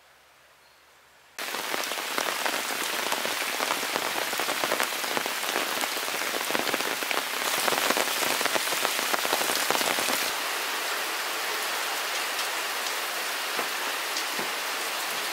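Steady rain falling on foliage, with many close drops ticking. It starts abruptly about a second and a half in, after near silence, and swells a little for a few seconds in the middle.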